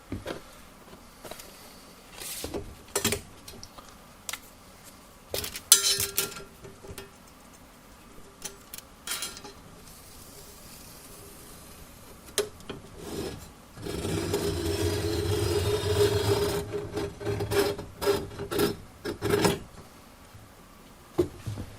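Steel sheet and hand tools being worked in a metal shop: scattered sharp clanks and knocks, with a few seconds of rasping metal-on-metal rubbing about fourteen seconds in.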